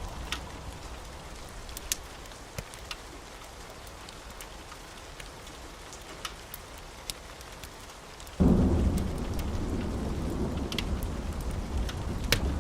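Wood fire crackling in a fireplace, with scattered sharp pops. About eight seconds in, a deep low rumble sets in suddenly and keeps going, louder than the crackle.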